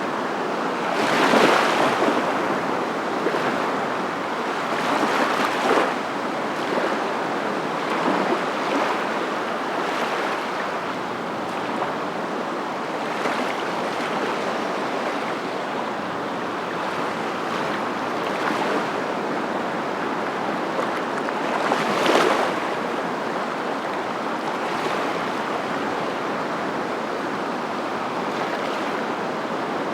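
Steady rushing water noise, like surf, with swells that grow louder and fade, the loudest about a second in and again about 22 seconds in.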